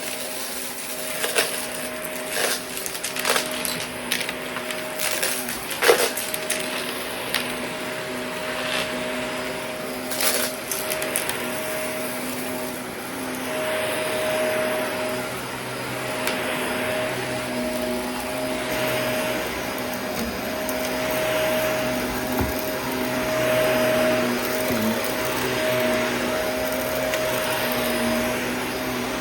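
Shark vacuum cleaner running with a steady motor hum, rattling and clicking as it sucks up bits of debris for the first ten seconds or so. After that the clicks stop and the sound swells and fades every couple of seconds as the vacuum is pushed back and forth.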